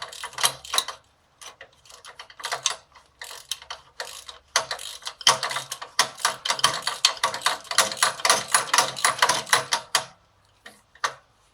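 Ratchet socket wrench clicking in short back-and-forth strokes as it tightens the top bolt of a motorcycle front engine mount. Short runs of clicks at first, then a long fast run from about five seconds in, stopping at about ten seconds.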